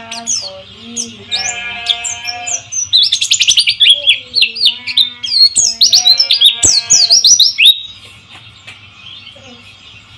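White-eye (pleci) song: rapid high chirps, sweeps and trills that grow loud and dense from about three seconds in and fade out near eight seconds. Underneath runs a steady hiss of trickling, flowing water.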